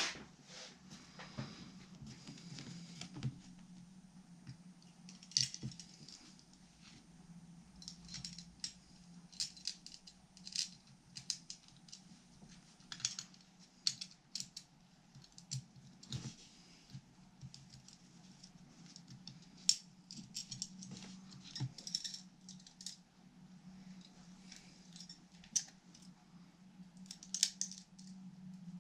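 Scattered small clicks, taps and rattles of guitar parts and hand tools being handled during assembly, over a steady low hum.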